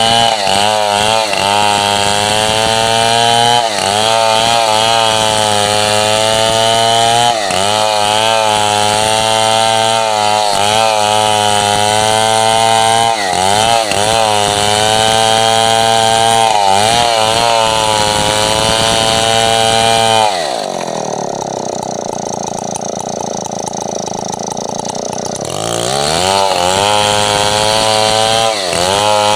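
Large Stihl 070-type two-stroke chainsaw running at high revs, its pitch sagging briefly every few seconds under load while cutting coconut wood into boards. About two-thirds of the way through it drops back to idle for about five seconds, then revs back up.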